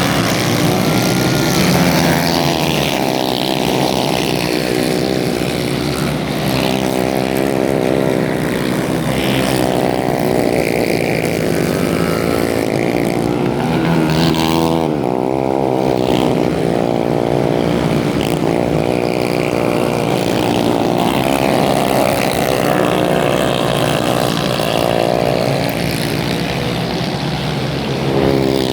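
Racing kart engines running at speed, several at once, their pitch rising and falling over and over as the karts accelerate and lift off through the corners.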